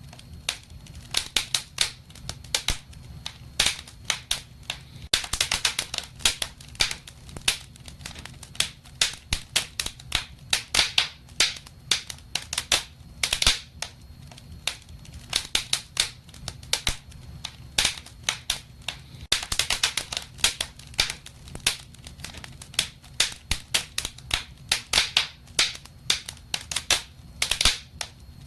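Wood fire in a fireplace crackling, with irregular sharp pops and snaps several times a second over a low steady rumble of the flames.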